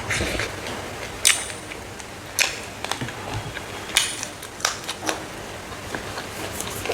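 Close-up crunching of dried smoked frog being bitten and chewed, with sharp crisp cracks about once a second.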